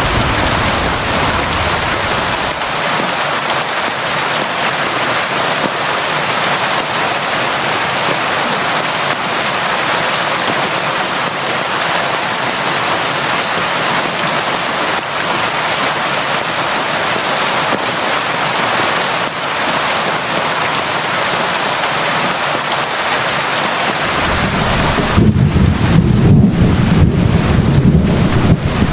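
Steady, heavy rain falling as an even hiss. About 24 seconds in, a deep low rumble sets in and grows louder while the rain's hiss thins.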